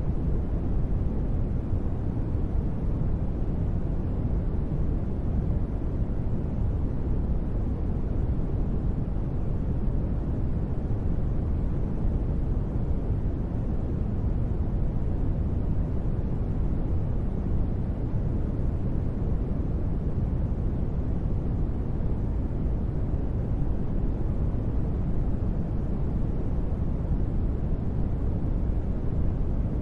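Steady, deep rumbling noise with no rhythm or change, heaviest in the low range and dull in the highs: the continuous noise bed of a deep-space ambience track.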